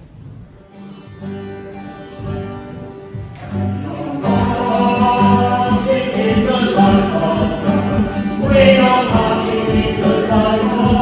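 Live music from a worship band: guitar with voices singing. It starts fairly soft and swells louder about four seconds in.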